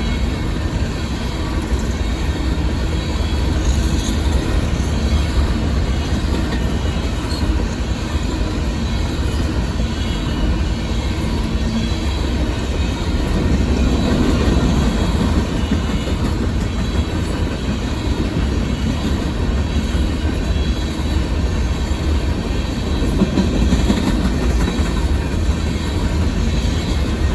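Union Pacific coal train's hopper cars rolling steadily past: a continuous loud rumble of steel wheels on rail, with faint wheel squeal.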